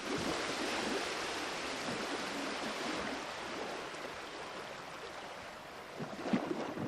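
Rushing water, a steady even wash that fades slightly, with a few faint knocks about six seconds in.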